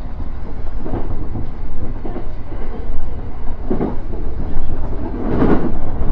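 E231 series electric multiple unit running along the line, heard from inside the car as a steady low rumble. It swells briefly louder twice in the second half.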